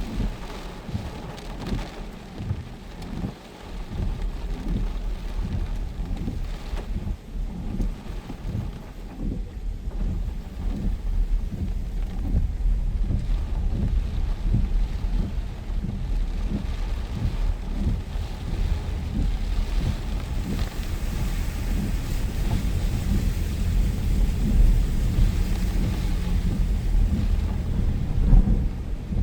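Heavy rain with gusting storm wind buffeting the microphone: a constant low rumble that surges and dips, with a fainter rain hiss above it that grows a little stronger in the second half.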